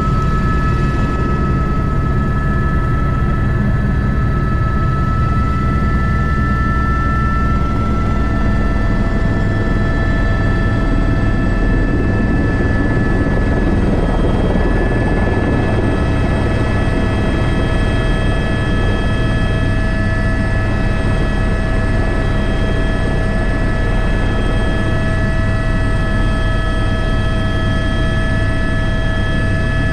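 Airbus H125 (AS350 B3) helicopter in flight: the turbine's steady high whine, in several tones, over the low, fast beat of the main rotor, running loud and even.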